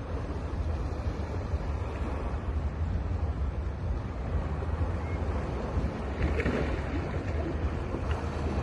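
Sea waves washing and breaking on a beach in a continuous surf roar, swelling a little about six seconds in, with a low rumble of wind on the microphone.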